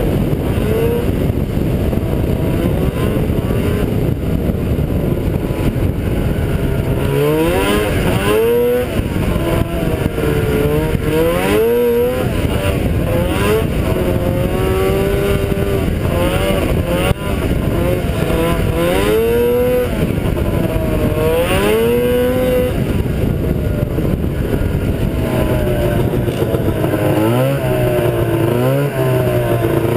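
Ski-Doo Blizzard 7500 snowmobile's two-stroke engine running on a test run after a clutch overhaul. It holds a steady note at first, then about seven seconds in rises and falls in pitch again and again as the throttle is worked, settling into smaller swings near the end.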